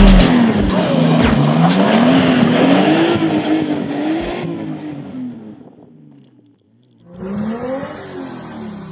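Nissan Skyline R32's engine revving up and down repeatedly, with tyre squeal, fading away about six seconds in. About a second later a second burst of engine sound comes in, falling in pitch as it fades.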